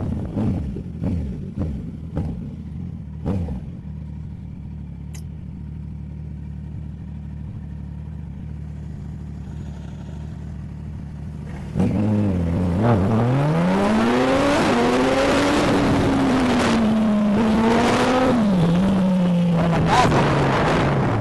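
Motorcycle engine with a sport exhaust idling steadily, with a few clicks and knocks in the first few seconds. About twelve seconds in it gets suddenly louder and revs up, its pitch climbing, holding, then rising and falling as the bike pulls away.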